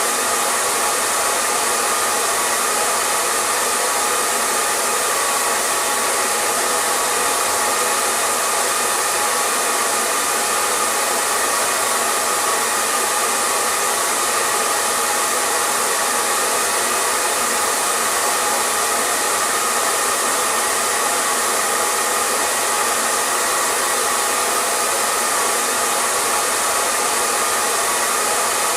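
Hair dryer running steadily: an unbroken whoosh of blowing air over a faint motor hum, with no change in speed or pitch.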